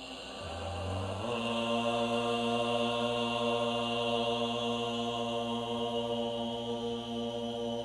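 A man chanting a mantra as one long, unbroken low tone. The note settles onto its pitch about a second in and is held steadily.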